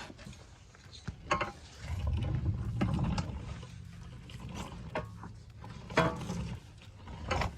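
Metal exhaust pipe sections being handled and fitted, giving a few sharp clanks and knocks: about a second in, around six seconds and near the end. A low rumbling scrape comes in between, over a steady low hum.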